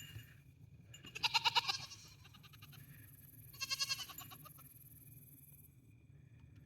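Goats bleating twice: a long wavering bleat about a second in and a shorter one a couple of seconds later. They are hungry goats screaming for food.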